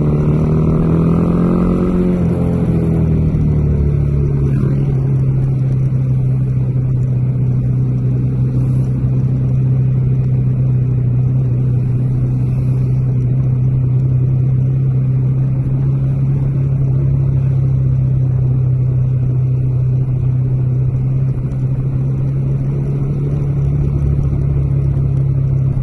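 Bajaj Dominar 400's single-cylinder engine pulling the motorcycle along. The pitch climbs a little, eases off about two seconds in, then holds steady at a constant cruising speed.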